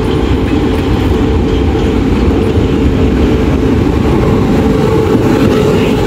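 Taiwan Railway Tze-Chiang express train running steadily, heard from inside the passenger car: a constant low rumble with a steady hum over it.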